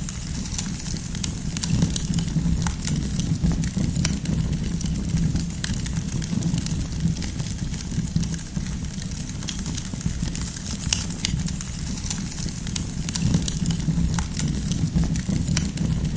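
Campfire of firewood burning: a steady low rumble of flames with frequent small crackles and pops scattered irregularly throughout.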